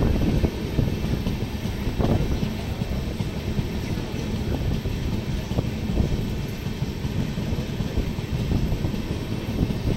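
Passenger train running through a station, heard from aboard: a steady low rumble of wheels on the track, with a few sharp knocks about two and six seconds in.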